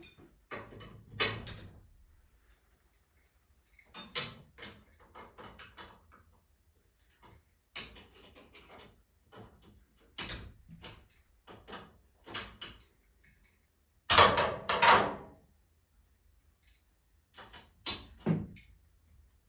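Intermittent metallic clinks, clicks and knocks of tools and garage door hardware being handled during torsion spring work, with a louder clatter about fourteen seconds in.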